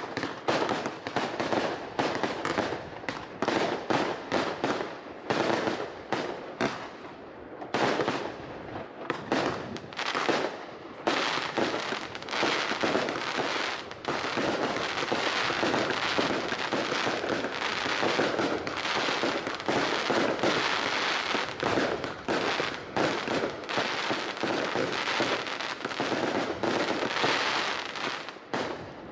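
Professional New Year's fireworks display: rapid shell bursts and bangs, turning into a dense, almost unbroken barrage from about twelve seconds in.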